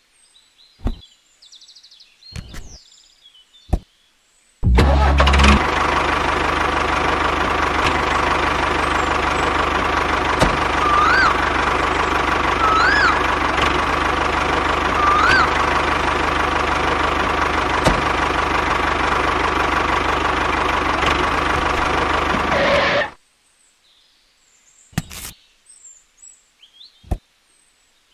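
An engine-like motor sound starts abruptly a few seconds in, runs steadily for about eighteen seconds and cuts off suddenly. Light clicks and taps come before and after it.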